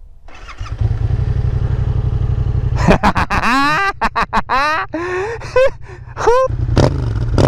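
Yamaha MT-07's parallel-twin engine, breathing through a freshly fitted aftermarket exhaust, starts up and idles, then is revved in several quick throttle blips between about three and six and a half seconds in before settling back to idle.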